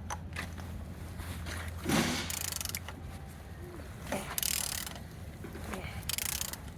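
A removed Opel Z12XEP four-cylinder petrol engine being turned over by hand. There are four short rasping mechanical strokes, about two seconds in, then at two and a half, four and a half and six seconds. The engine turns freely.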